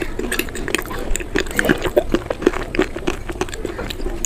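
Dense, irregular crackling and crunching, many small cracks in quick succession with a wet, fizzing edge: a crumbly, crunchy substance being crunched close to the microphone.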